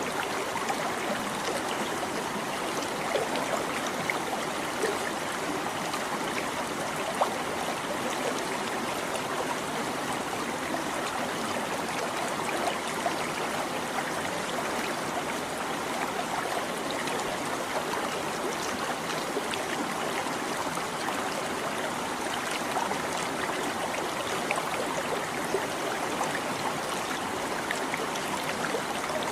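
Small stream babbling and trickling over stones: a steady rush of water with many tiny splashes and drips.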